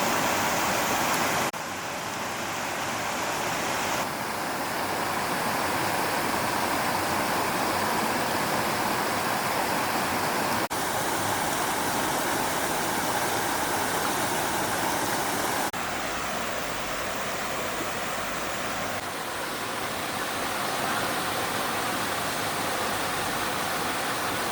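Stream water rushing steadily, a full, even hiss of flowing water. Its loudness and tone shift abruptly a few times: about a second and a half in, around 4 s, near the middle, and again about two-thirds through.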